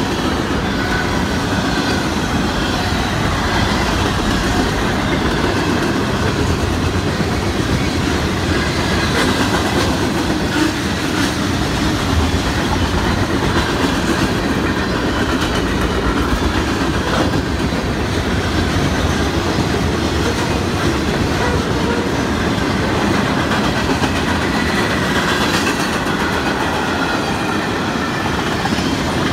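Freight train cars (covered hoppers, boxcars and tank cars) rolling past close by: a loud, steady rumble and clatter of steel wheels on the rails that does not let up.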